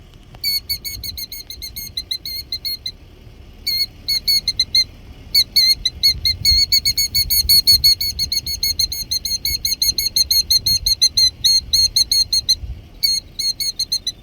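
Killdeer calling: rapid, high, repeated alarm notes, about five a second, in long runs with short breaks. These are the bird's agitated cries at an intruder close to its eggs on the ground.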